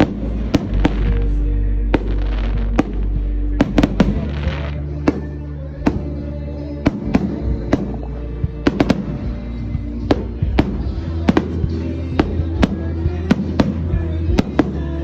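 Fireworks going off in many sharp, irregular pops and bangs, over music with a steady bass.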